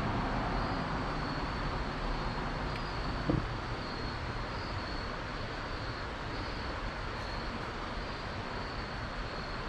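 Steady rushing of flowing creek water, with a brief knock about three seconds in.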